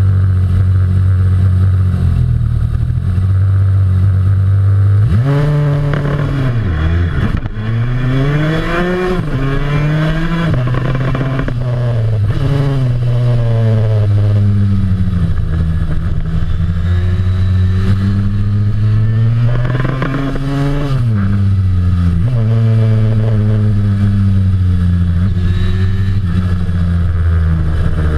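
1973 Yamaha RD350's air-cooled two-stroke twin, heard from on board. It holds steady revs for about five seconds, then revs hard, the pitch climbing and dropping back again and again as the bike accelerates through the gears and lifts off for bends.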